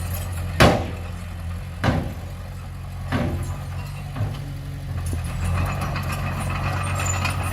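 Komatsu D20P bulldozer's diesel engine running steadily, with three sharp clanks about a second and a quarter apart in the first half. From about five seconds in a louder metallic clatter joins it.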